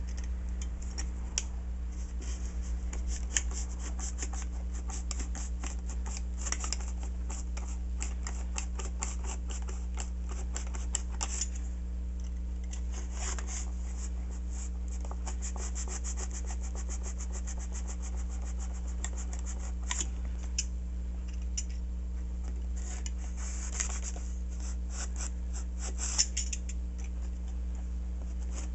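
Snap-off utility knife blade cutting through an RC airplane's foam, a rapid series of short, scratchy rasping strokes, with a steady low hum underneath.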